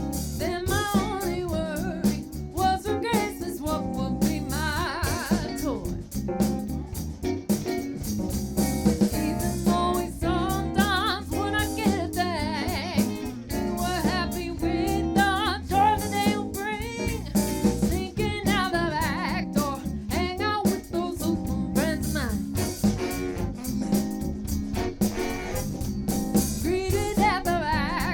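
Live band playing a song with a lead singer, over drums and bass with a steady beat.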